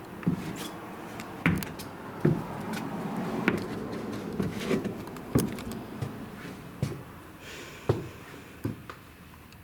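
Slow footsteps thudding on the floorboards of an old house, about one step a second, fading toward the end.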